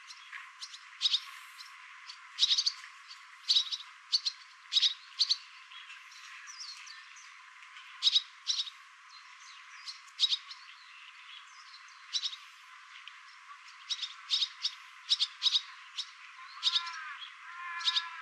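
Small birds chirping: short, sharp, high chirps, often in twos or threes, repeated irregularly. Near the end a lower call that rises and falls joins in.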